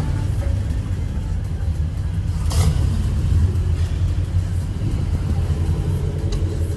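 A car engine running with a steady, deep rumble. A single sharp click comes a little before the middle.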